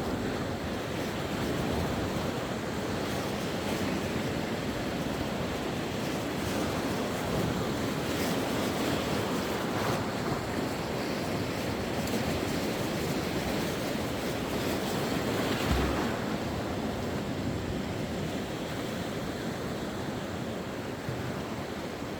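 Sea waves breaking and washing on the shore: a steady rush of surf that swells gently in the middle, with a brief low thump of wind on the microphone a little past two-thirds through.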